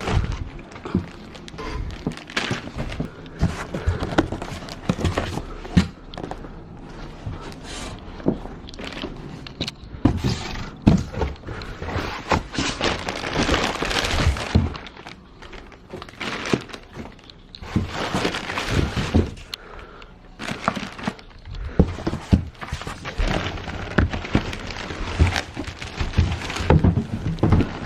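Unboxing noise: irregular knocks and thuds of chair parts being handled, with stretches of rustling and crackling from the packaging.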